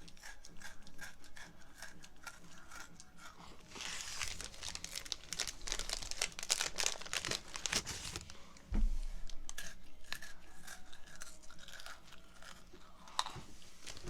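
Strawberry Pocky biscuit sticks being bitten and chewed close to the microphone: a run of sharp, crisp crunches, densest in the middle, with a low thump about nine seconds in.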